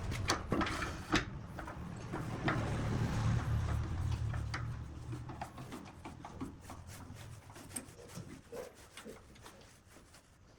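Scattered knocks and taps with some rubbing and scraping, as objects are handled, over a low rumble that fades out about halfway through.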